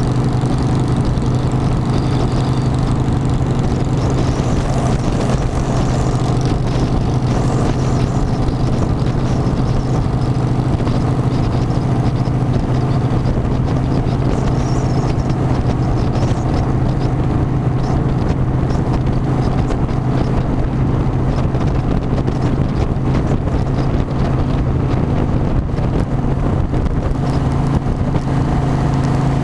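Harley-Davidson motorcycle's V-twin engine running at a steady cruising pace, a constant low hum with road and wind noise.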